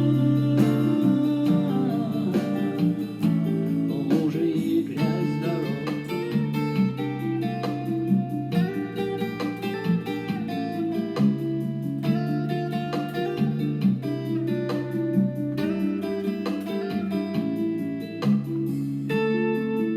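Instrumental song passage led by guitar, plucked and strummed over a bass line that changes note every second or two, with no singing.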